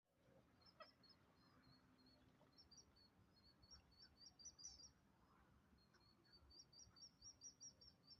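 Faint chirping of birds: strings of short, high chirps, settling into a quick, even run of several a second near the end.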